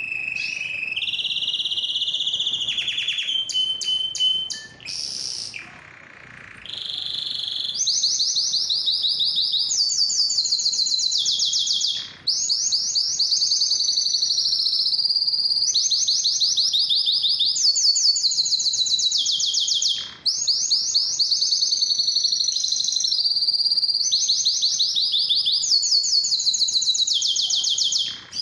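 Male canary singing a long, loud song of rapid trills, each phrase a quick run of repeated notes, several falling in pitch, with brief pauses between song bursts.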